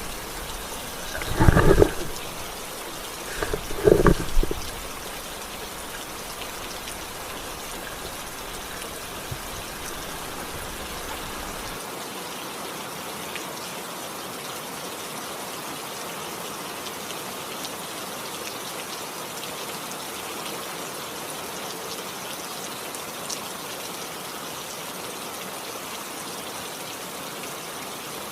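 Steady rain falling, an even hiss that holds level throughout, with two short louder sounds in the first five seconds.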